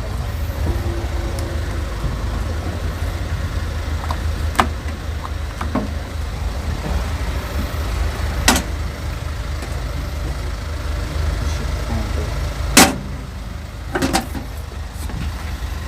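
A few sharp clicks and clunks over a steady low rumble, the loudest clunk about 13 seconds in.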